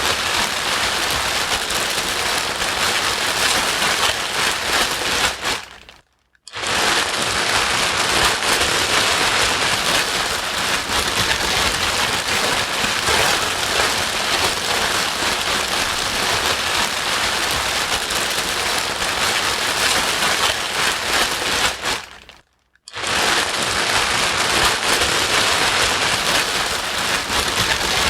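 Steady, loud white noise with a rain-like hiss and crackle. It cuts out to silence briefly twice, about 16 seconds apart, where the track loops.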